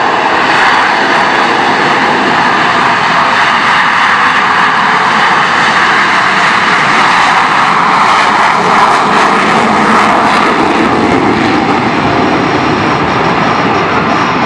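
Four Blue Angels F/A-18 Hornets taking off together in diamond formation, their jet engines in afterburner making a loud, steady jet noise that swells a little about eight to ten seconds in.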